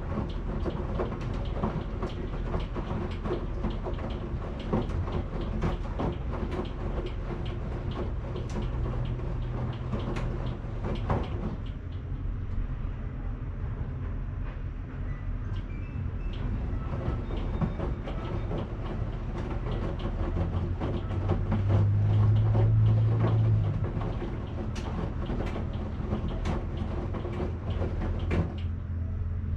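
Washing machine running, its drum turning the load with frequent irregular clicks and clunks over a low motor hum. The hum grows louder for a few seconds about two-thirds of the way through.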